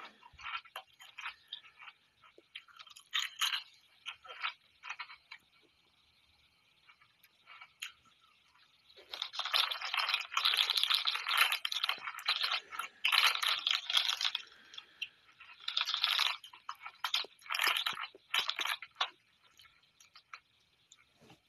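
A person chewing crunchy Funyuns Spicy Queso onion-flavored rings with irregular crunches, sparse at first, then a dense, loud run of crunching about halfway through.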